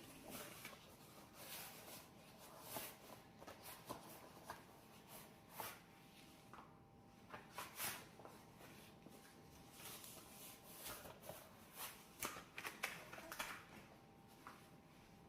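Brush scrubbing a dirty stove in short, irregular scratchy strokes, fairly quiet.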